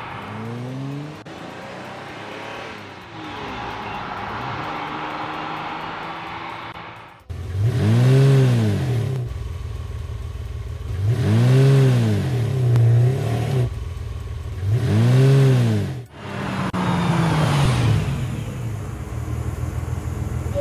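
Cartoon vehicle engine sound effect: a steady mechanical whir, then the engine revs up and back down three times, loud, each rev rising and falling in pitch over about two seconds, and finally winds down with a falling pitch.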